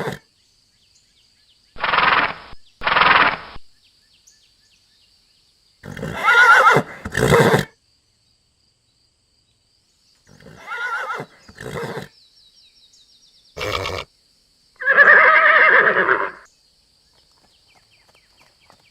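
Horse neighing and whinnying three times, with silent gaps between the calls. Two short, rough, breathy calls come about two seconds in, and there is a single sharp knock near the end.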